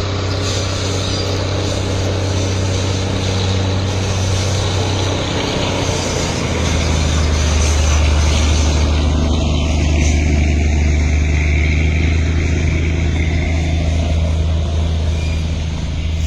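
An engine running steadily, a low hum that drops a little in pitch about six and a half seconds in, with running noise over it.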